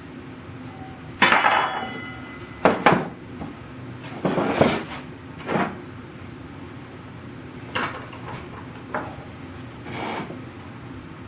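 A string of clattering knocks and metallic clinks as small metal objects are handled and set down. The first, about a second in, is the loudest and rings briefly. Softer knocks follow every second or two.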